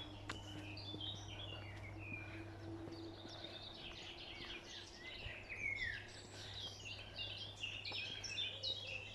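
Several wild birds singing and chirping together in quick, overlapping trills and twitters over a faint, steady background hum.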